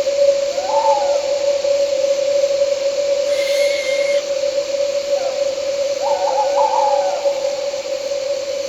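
An owl hooting: one short call about a second in, then a cluster of several quick hoots near the end. Under the calls runs a steady, unbroken drone of night insects, with a brief higher whistle midway.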